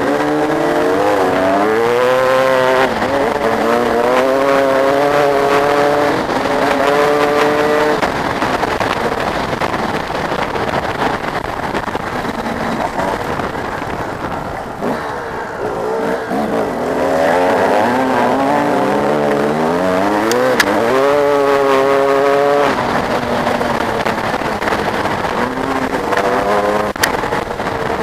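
Motocross bike engines revving hard and easing off, their pitch climbing and falling again and again as they ride by. The engines are loudest through the first several seconds and again from about 17 to 23 seconds in, and quieter in between.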